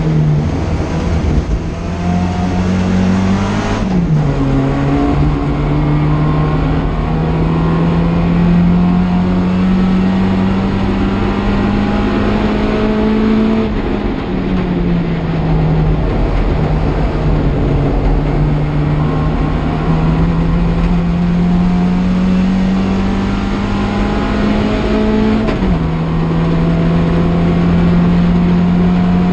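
Classic Mini race car's A-series four-cylinder engine heard from inside the cockpit at racing revs. Its pitch climbs slowly through each gear, drops sharply at the upshifts about four seconds in and again near the end, and falls away for a couple of seconds around the middle as the throttle comes off.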